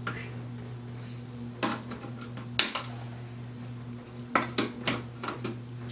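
Sharp metallic clinks and knocks of tools and small parts handled on a workbench, about half a dozen, the loudest about two and a half seconds in, over a steady low hum.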